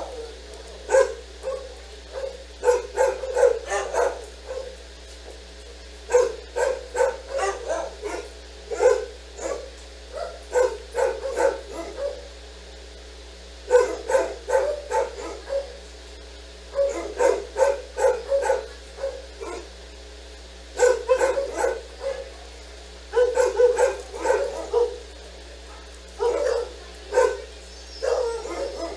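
A dog barking in bouts of quick barks, seven or so bursts separated by short pauses, over a low steady hum.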